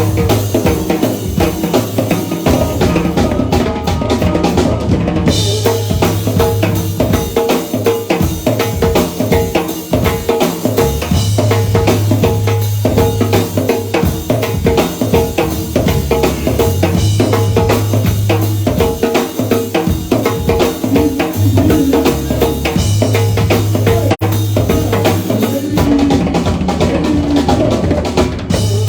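Live band playing an instrumental passage led by a busy drum kit: kick drum, snare and rimshots in a steady rhythm over sustained low bass notes.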